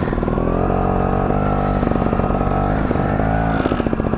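Trials motorcycle engine running at low revs with a popping beat, its pitch rising and falling slightly with the throttle.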